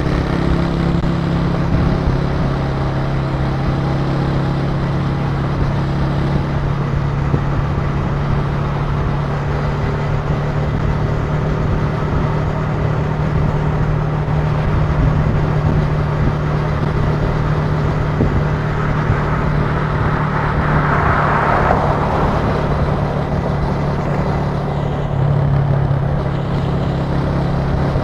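Italika TC300 motorcycle engine running at a steady cruise, heard from on the bike with road noise. A rushing noise swells and fades about two-thirds of the way through, and the engine note shifts slightly near the end.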